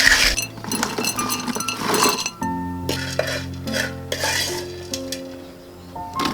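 Dishes and cutlery clinking and scraping in several short bursts over background music with held notes.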